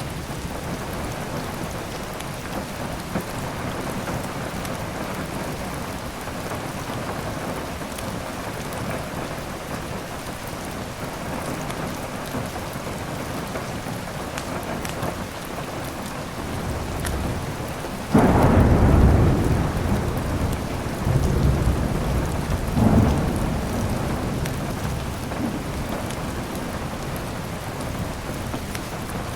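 Steady heavy rain with the faint snap of a crackling fireplace. About two-thirds of the way through, a sudden thunderclap rolls into a rumble lasting several seconds, with a second swell a few seconds later.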